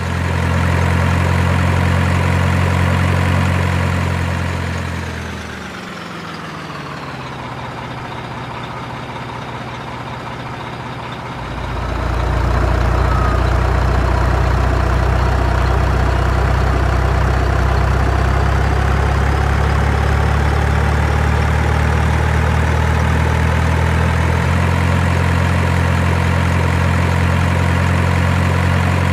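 Heavy truck engine running steadily with a deep hum; about five seconds in it winds down and drops in pitch, stays quieter for several seconds, then comes back up to a steady run about twelve seconds in.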